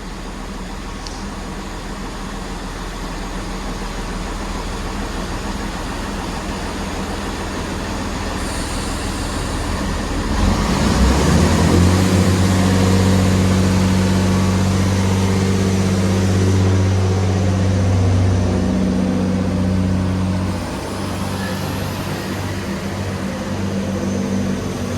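Class 165 diesel multiple unit pulling out of the station: a building engine rumble, then its diesel engines rev up about ten seconds in, run at a steady pitch for roughly ten seconds, and ease off near the end.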